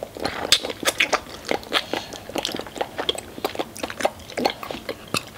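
Eating sounds: bites into roasted chicken wings and chewing, an irregular run of crunches and wet mouth clicks, several a second.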